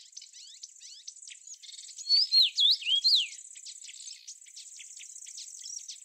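Songbird singing: a loud phrase of several sweeping, swooping whistles about two seconds in, over a busy background of rapid high chirps and ticks.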